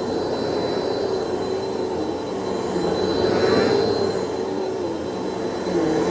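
Vacuum cleaner running steadily, its motor pitch and airflow rising and falling in a swell about three and a half seconds in.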